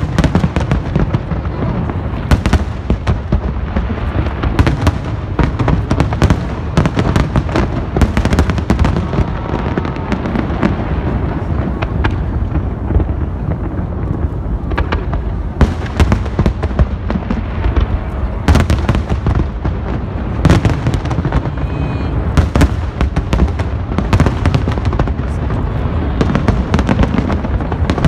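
Fireworks going off in quick, irregular succession: a steady barrage of sharp bangs and crackles over a continuous low rumble.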